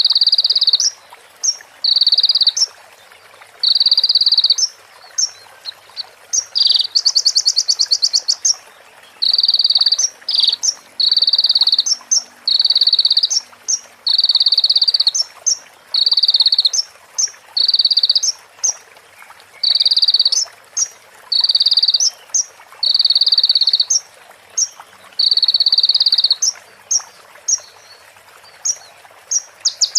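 A konin (sunbird) singing a string of harsh buzzy notes, about one every second or so, each under a second long, with short high chips in between. It breaks into a fast rattling trill about seven seconds in. The buzzy notes are its imitation of a female prenjak's call.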